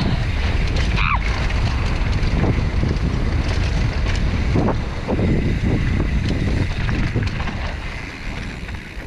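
Mountain bike riding down a rough dirt trail: wind buffeting the microphone over tyre noise, with knocks and rattles from the bike and a brief falling squeal about a second in. It gets quieter near the end.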